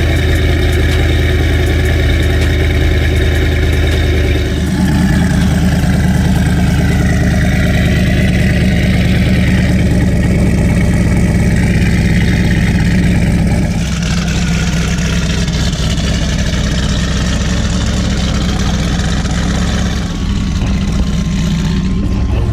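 Cammed twin-turbo LSX V8 in a Nissan 240SX running steadily at idle. Its tone shifts about four and a half seconds in and again near fourteen seconds.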